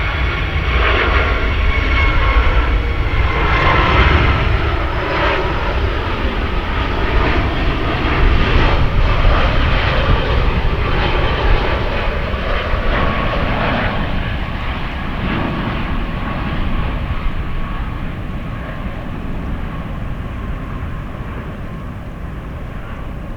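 Jet airliner's engines: a heavy rumble with a high whine, strongest in the first half, then slowly fading as the aircraft moves away.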